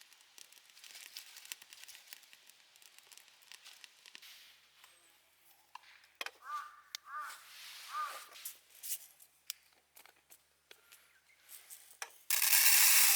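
Scattered crackling and small clicks, with three short bird calls about six to eight seconds in. A sudden loud rushing hiss starts near the end.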